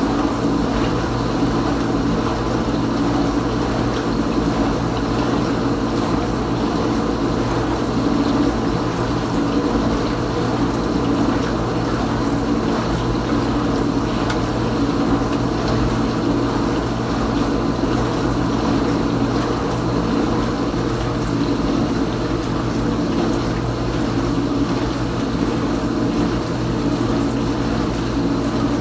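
Kenmore Ultra Wash dishwasher mid-wash: the circulation pump motor hums steadily while water sprays around inside the tub.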